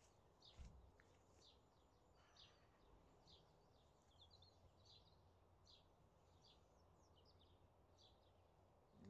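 Near silence with faint birdsong: short high chirps repeating every half second or so. A single soft knock about half a second in.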